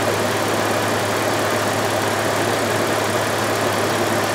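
The 2000 Audi A6's 2.8-litre V6 engine idling steadily, warmed up.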